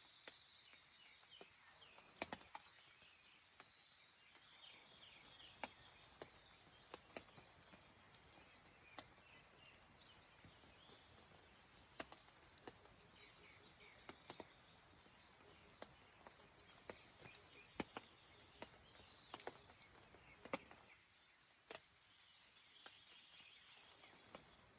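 Faint dawn ambience of irregular raindrops dripping and tapping, a few louder than the rest, over a soft hiss. Small birds chirp and twitter in short bouts.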